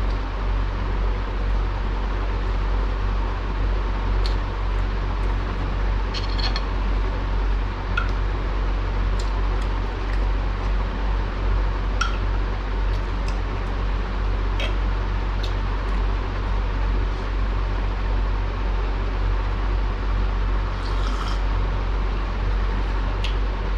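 Steady hum and air rush of an electric fan running, with a scattering of light clinks of dishes and cutlery during a meal.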